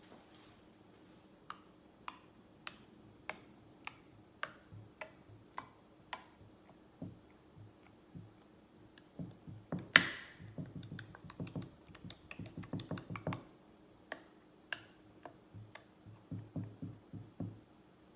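Slime being pressed and worked by hand, giving a string of sharp pops and clicks as air pockets burst. The pops come about one every half second at first, then in quicker clusters, with one louder snap about ten seconds in.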